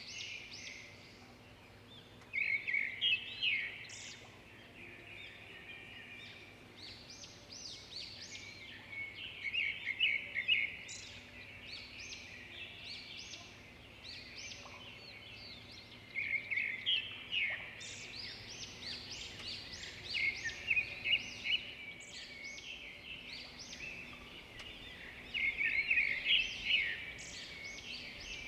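Zebra finches calling: many short, quick chirps, rising into louder bursts of chatter every few seconds with quieter calling between.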